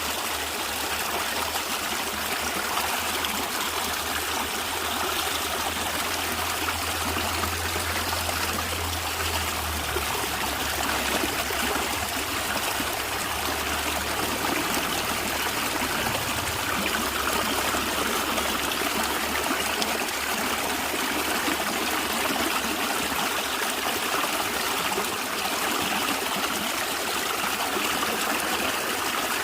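A natural stream running steadily, its water gurgling and trickling. A low hum underneath fades out about halfway through.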